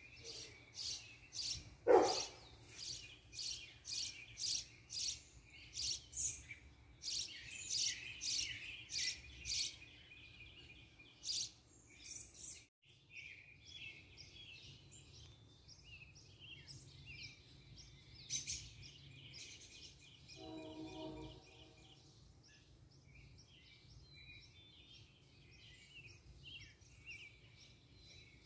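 Songbirds chirping outdoors: a rapid run of high, sharp chirps for about the first twelve seconds, then softer, busier twittering. A short, loud sweeping sound comes about two seconds in, and a brief lower pitched call around twenty-one seconds.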